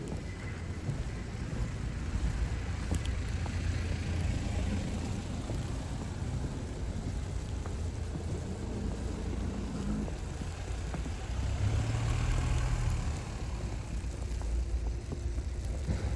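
Snowy street ambience: a low steady rumble, with a vehicle engine humming past about nine to thirteen seconds in.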